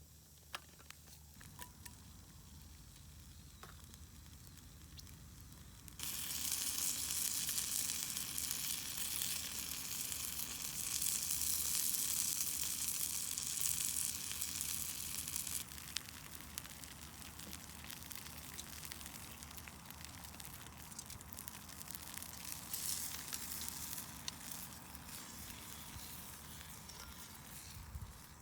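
Food frying in a skillet: quiet with a few small clicks at first, then a loud sizzle starts suddenly about six seconds in, drops to a softer steady sizzle about ten seconds later and carries on with occasional small pops.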